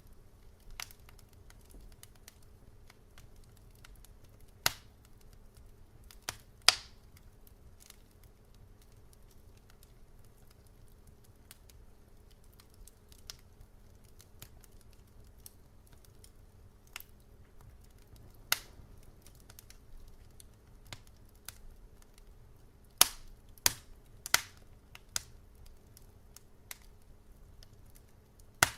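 Wood fire crackling: irregular sharp pops and snaps over a low rumble, with a few louder pops about five and seven seconds in and a quick cluster of them around twenty-three to twenty-five seconds in.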